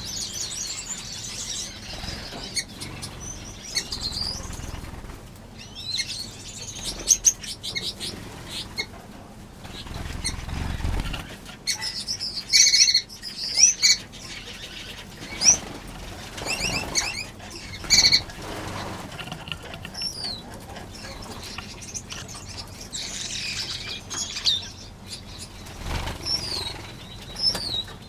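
A flock of aviary finches chirping and calling in many short, high notes, with wings fluttering as birds fly about.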